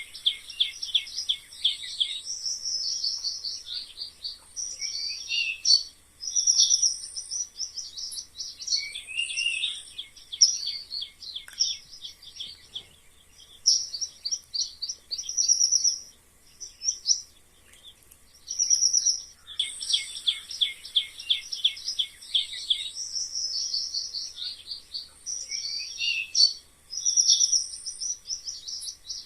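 Mice squeaking: bouts of rapid high-pitched squeaks and chirps, each lasting a second or few with short pauses between. The same sequence comes round again about two-thirds of the way through, as a looped track.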